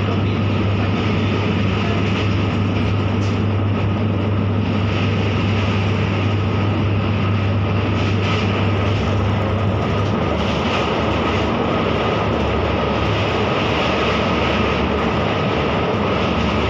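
Electric commuter train running, heard from inside the carriage: a steady rumble of wheels and running gear with a low hum that drops slightly in pitch about ten seconds in.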